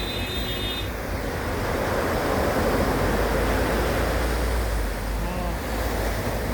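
Sea waves washing onto the shore, with wind rumbling on the microphone; the wash swells about two seconds in and eases off near the end.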